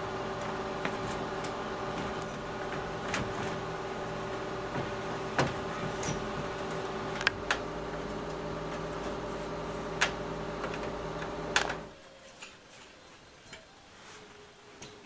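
A steady mechanical hum with a few sharp clicks and knocks of metal parts being handled and fitted. The hum cuts off abruptly about twelve seconds in, leaving only faint knocks.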